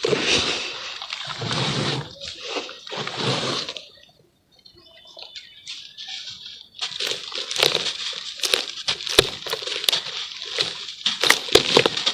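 Charcoal being crumbled in water: wet sloshing and splashing for the first few seconds, a short lull, then dense crackling and crunching from about seven seconds in.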